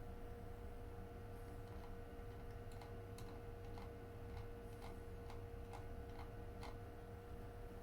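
A faint, steady hum holding a few fixed tones over a low rumble, with a run of light ticks, about one or two a second, from about three seconds in to near the end.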